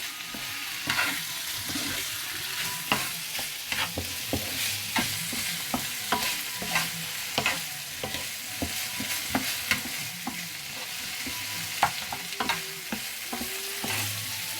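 Chicken, egg and vegetables for fried rice sizzling in a hot pan as they are stirred, the utensil clicking and scraping against the pan about every half second over a steady frying hiss.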